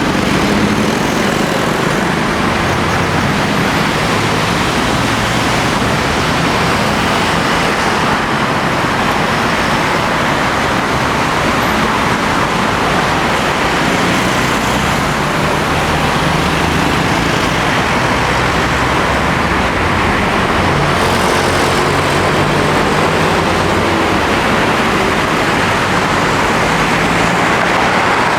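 Airbus A320 airliner's jet engines running, a steady loud rush with a low hum shifting underneath.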